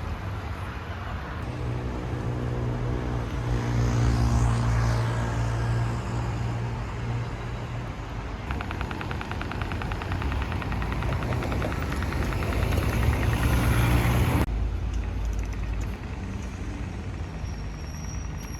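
A large motor vehicle's engine running close by amid street traffic, a steady low hum. A fast, even ticking runs for several seconds in the middle, and the sound changes abruptly about two-thirds of the way through.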